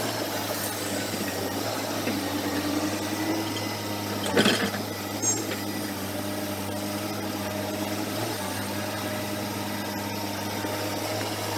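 Diesel engine of heavy earthmoving machinery running steadily, with a short clatter about four and a half seconds in.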